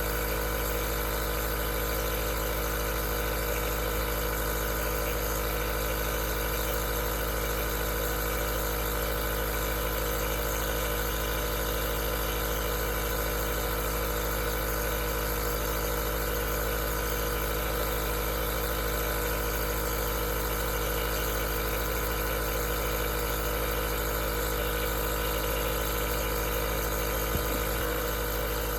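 Aerosol nebulizer's compressor running steadily: a constant hum with an even hiss.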